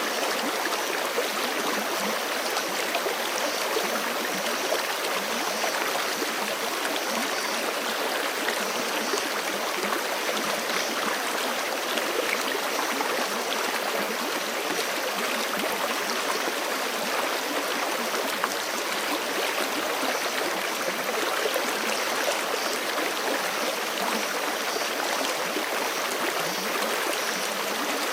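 Forest creek running fast over rocks: steady rushing and babbling of flowing water.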